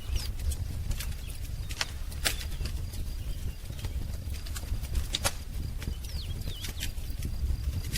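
Wood fire crackling, with irregular sharp pops over a low steady rumble. Birds give a few brief high chirps, one near the start and two a little after the middle.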